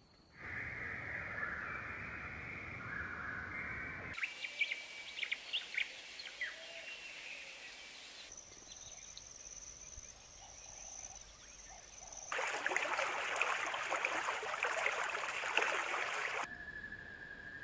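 Bird calls from several different recordings spliced together, the sound changing abruptly every four seconds or so: a dense chorus, then scattered sharp chirps, then a steady high whine, then a loud dense chattering, then a steady single note.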